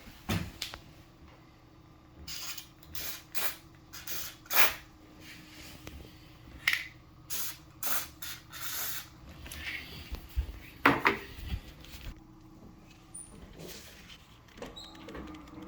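Aerosol white lithium grease sprayed onto a squeaky door hinge in a series of short hissing bursts, with a few knocks from handling the door and can. A faint steady hum lies underneath.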